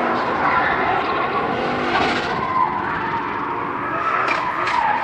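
Drift car sliding: tyres squealing and scrubbing over the running engine, with two short sharp cracks a little after four seconds in.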